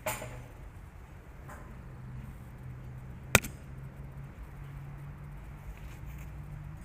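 One sharp, loud click about halfway through, with a fainter click at the start, over a low steady hum.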